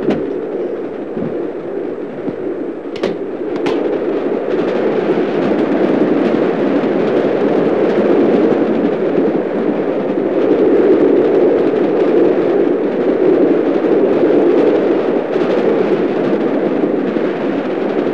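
Loud steady rumble of a train running at speed, heard from inside a carriage, with two sharp clicks about three seconds in; the rumble grows a little louder soon after.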